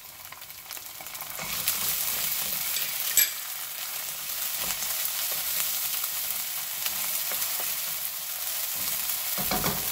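Scallion whites and garlic-ginger paste sizzling in hot oil in a granite-coated pan, stirred with a wooden spoon. The sizzle grows louder about one and a half seconds in, and there is a single sharp tap about three seconds in.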